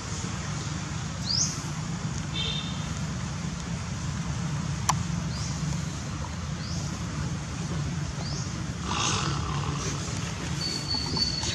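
Outdoor ambience: a steady low hum like distant traffic, with short, high rising chirps repeating about every second or so. A single sharp click comes about five seconds in.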